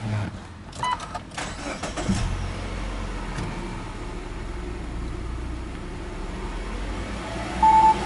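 Subaru Legacy Touring Wagon 2.5i's EJ25 flat-four engine being started: some clicks at first, then it catches about two seconds in and settles into a steady idle. A short loud beep sounds near the end.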